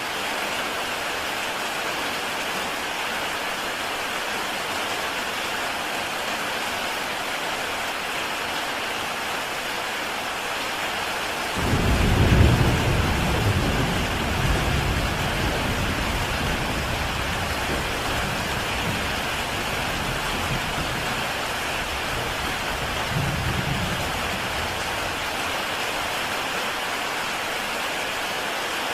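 Heavy rain falling steadily on a tile roof. About a third of the way in, a roll of thunder breaks in suddenly and rumbles low for several seconds before fading away.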